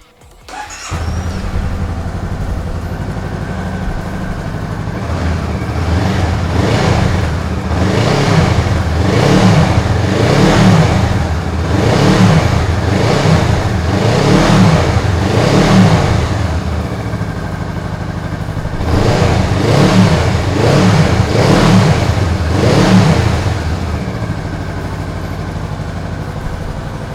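2018 Honda Rebel 500's parallel-twin engine starting about a second in and idling, then revved with a series of throttle blips in two groups before settling back to idle and shutting off near the end.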